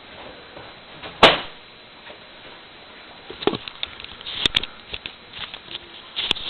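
A sharp knock about a second in, then a run of light clicks and taps from about three seconds in: someone working a microwave oven's door and controls.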